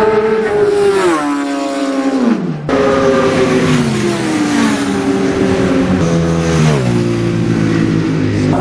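Racing motorcycle engine of a classic superbike, loud and high-revving, its pitch dropping in several steps as the rider shifts down. The sound breaks off abruptly about three seconds in and picks up with another run of downward steps.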